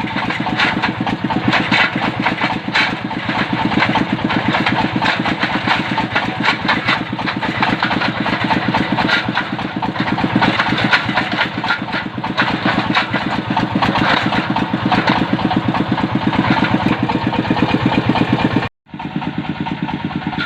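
Diesel engine of a well-drilling machine running steadily with an even, rapid firing pulse. It drops out for a split second near the end and resumes slightly quieter.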